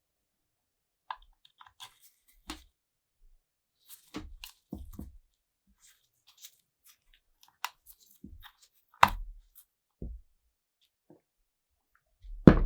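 Scattered clicks, scrapes and knocks of metal parts and tools being handled on a workbench. Two louder knocks stand out, about nine seconds in and near the end.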